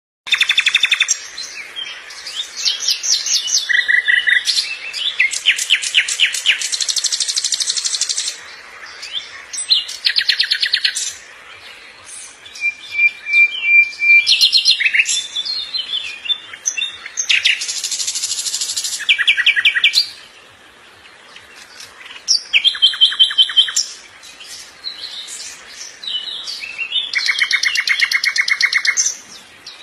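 A bird singing a long, varied song: fast trills, buzzy runs of rapid notes and short steady whistled tones, in phrases that change character every second or two, with brief pauses between them.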